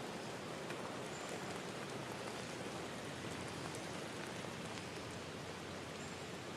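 Steady rushing and babbling of a forest river stream, with a couple of faint, brief high bird chirps.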